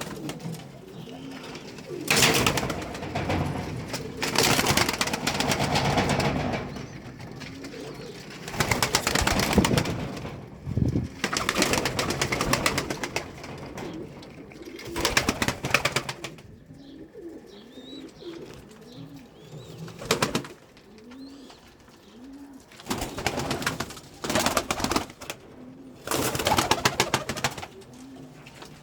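Domestic pigeons cooing in low, repeated coos, broken by several loud noisy bursts of a second or two each.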